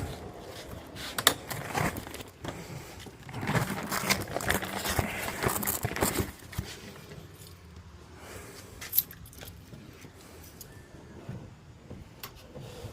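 Handling noise: jangling, sharp clicks and scrapes of small hard objects being moved about, busiest in the first six seconds, then a few isolated clicks.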